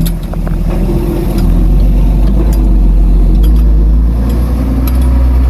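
Heavy diesel engine of an earthmoving machine running steadily with a deep drone, with a few sharp clicks scattered over it.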